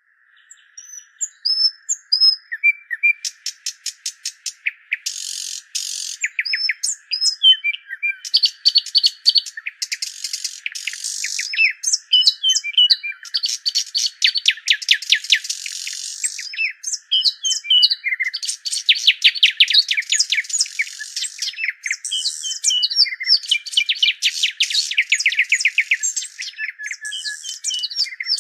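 Songbirds singing: fast trills and repeated chirps, overlapping and continuous, over a steady faint high hum.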